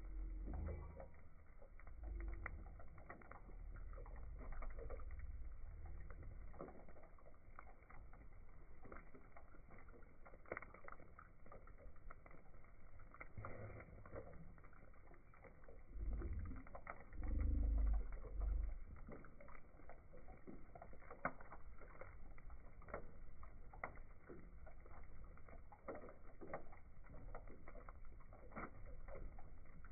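Wood fire crackling, with sharp pops scattered irregularly throughout. A low rumble comes and goes beneath it, strongest about two-thirds of the way in.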